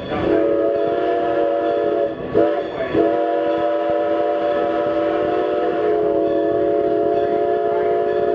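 Steam whistle of Strasburg Rail Road locomotive No. 90 blowing a chord of several tones over the running train: a long blast, a short one, then a blast held for about five seconds.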